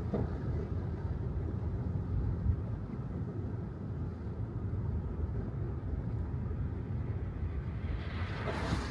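Steady low road rumble and tyre noise from an electric Tesla Model 3 driving on wet city pavement, with no engine note. Near the end the hiss swells briefly, then fades.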